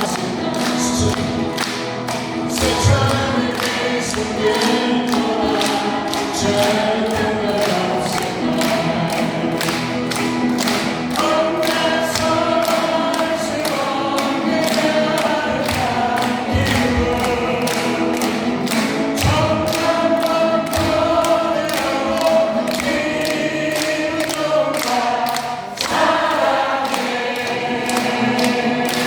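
Live music: voices singing a song over an accompaniment with a steady beat.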